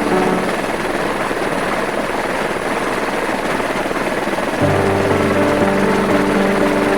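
Steady aircraft-like engine noise with a fast flutter. Background music with sustained chords comes in about four and a half seconds in.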